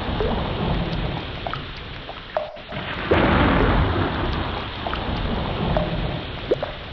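Ocean water ambience: a deep rushing wash that fades away, then surges again about three seconds in, with short rising bubbly plinks scattered through it.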